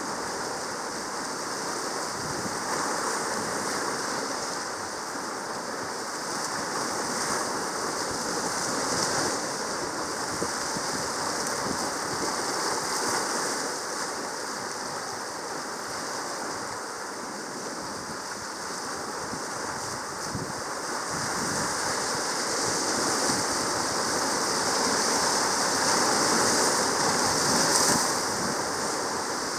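Sea noise: a steady rush of water that swells and eases every few seconds, loudest near the end.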